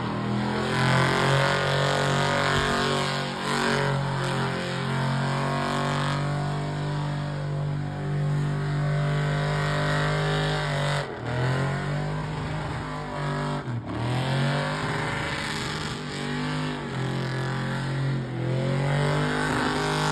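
Car engine held at high revs during a burnout competition run, its pitch steady, then dropping and sweeping back up twice in the second half.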